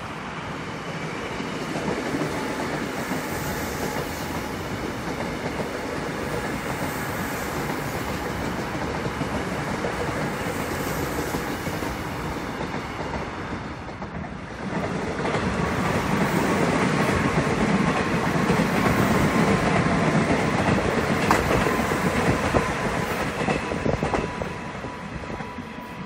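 Korail Line 1 electric commuter trains running on ballasted track, wheels clattering over the rails with a steady rumble. The sound dips briefly about halfway through, then a second train comes on louder, with a steady whine near the end.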